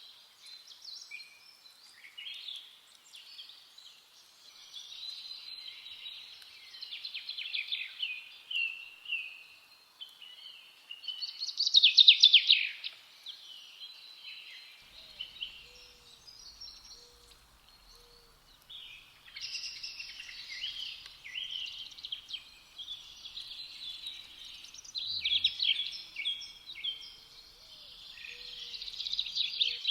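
Several songbirds singing and chirping in overlapping, warbling phrases, with a loud rapid run of notes about twelve seconds in.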